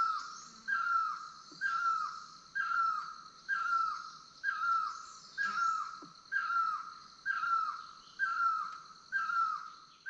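A bird repeats a short whistled note that slides downward, about once every 0.8 seconds, over a steady high-pitched drone of insects.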